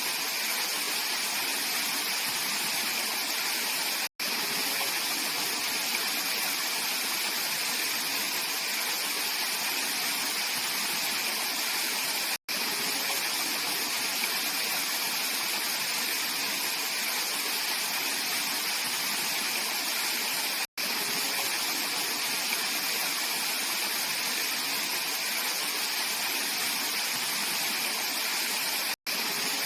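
Mountain valley stream rushing steadily, a bright even water noise. It cuts out to silence for an instant about every eight seconds.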